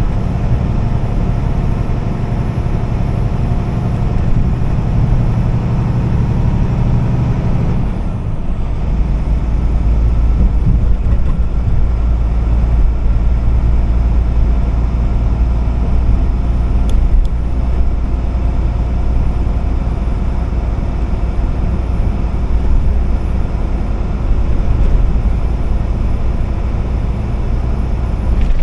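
Truck engine and road noise while driving, a steady low drone. About eight seconds in it dips briefly and settles into a deeper rumble.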